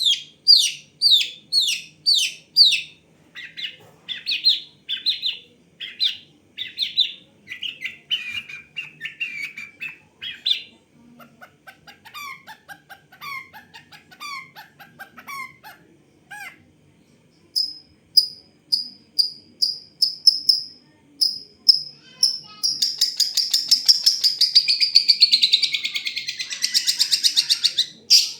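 Long-tailed shrike singing a varied song of learned, mimicked phrases: a run of repeated down-slurred whistles about two a second, then shifting sets of chirps, a string of even high notes, and a fast buzzing trill near the end.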